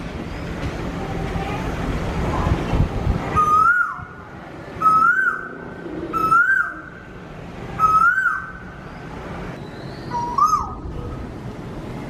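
A bird calling five times, each call a short whistled note that rises and then drops, repeated about every one and a half seconds. For the first three seconds or so there is only low rumbling noise before the calls begin.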